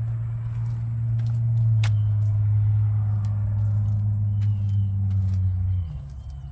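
A truck engine being cranked on the starter without catching: a steady low drone that cuts off about six seconds in.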